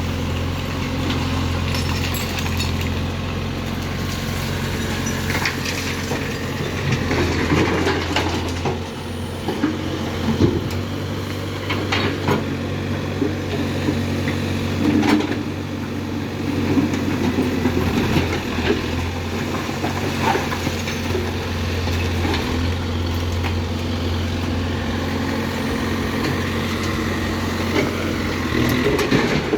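Diesel engine of a Case backhoe loader running steadily, with scattered knocks and clatter as demolition rubble is scooped and loaded into a tipper truck.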